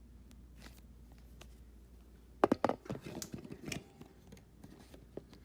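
Handling noises: a quick run of sharp taps and knocks about two and a half seconds in, then a few faint scattered clicks.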